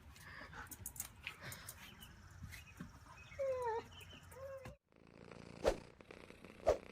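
German Shepherd dog whining: a short call that falls in pitch about halfway in and a second, shorter one just after, amid light clicks. Two sharp knocks about a second apart near the end.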